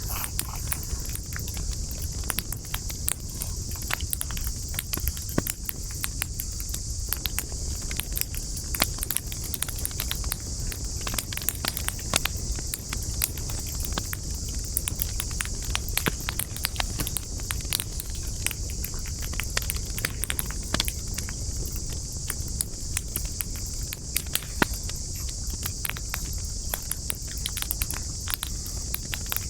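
Wood campfire crackling, with frequent irregular small pops and snaps over a low rumble and a steady high hiss.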